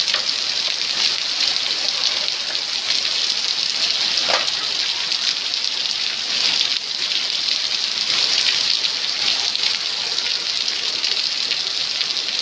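Steady rain falling and pattering on hard surfaces, a dense even noise with no let-up.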